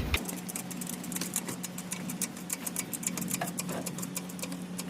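Rapid, fairly even clicking, several clicks a second, over a steady low hum.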